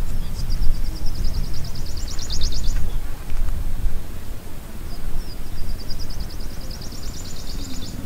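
A small songbird sings twice, each song a thin high note running into a fast trill of about a dozen notes a second, over a loud, uneven low rumble.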